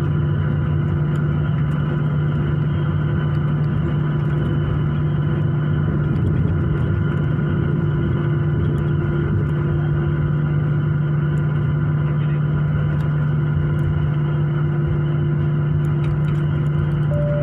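Airliner cabin noise from the jet engines running at low power before takeoff: a steady drone with a strong low hum and fainter steady whine tones above it.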